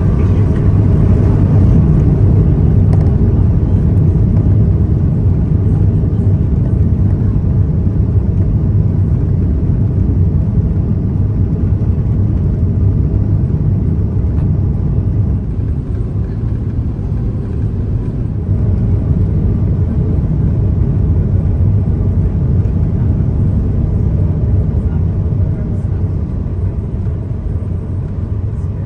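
Steady low rumble of an Airbus A380 heard from inside the passenger cabin: engine and airflow noise.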